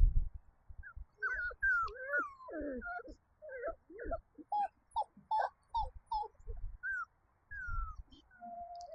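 Young Labradoodle puppies whimpering and squealing: many short, high whines that glide up and down, some overlapping, with a few soft low thuds underneath.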